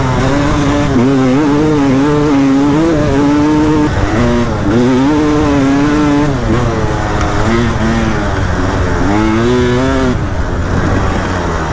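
KTM EXC 300 two-stroke enduro engine running while riding, its pitch rising and falling as the throttle is opened and eased off, with a couple of brief drops in revs.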